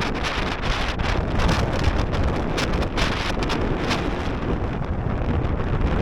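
Strong gale buffeting the camera microphone: loud, gusty rumble and flutter.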